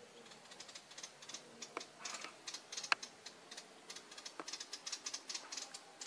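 Small forest birds giving rapid, irregular chipping and ticking calls, with a few sharper clicks among them.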